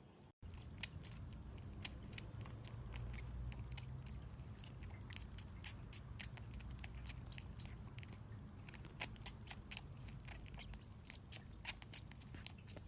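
A pet chewing crunchy food: many sharp, irregular crunches, several a second, over a steady low rumble.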